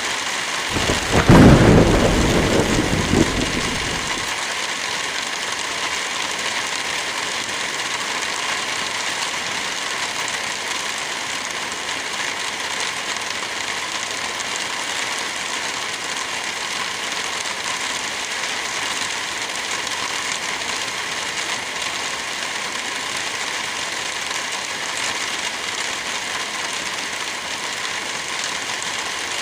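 Steady rain, with one loud clap of thunder about a second in that rumbles away over the next three seconds.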